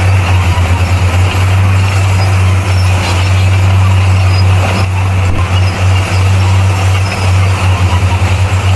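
Bulldozer's diesel engine running with a loud, steady low drone that pulses rapidly for a moment at the start and again near the end.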